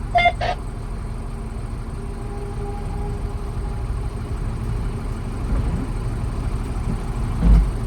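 Steady low rumbling noise, with a brief snatch of voice at the very start and a louder low thump near the end.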